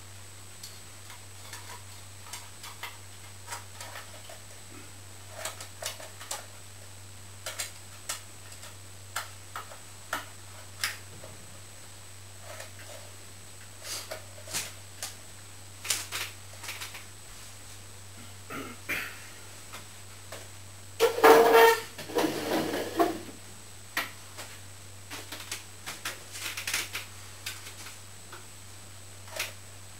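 Scattered small clicks and knocks of hand tools and plastic and metal parts being handled while a ceiling fan with a light is taken apart, with a louder rattling clatter about two-thirds of the way through. A steady low hum runs underneath.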